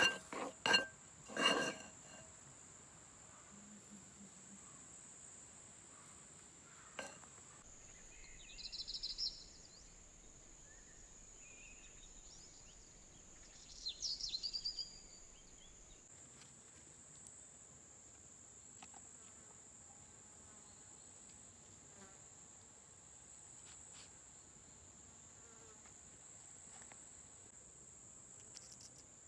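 Steady high-pitched insect buzz, like crickets, with a few ringing clinks of dishes or cutlery in the first second or two. Two short bursts of chirping rise above it, about a third of the way in and again about halfway.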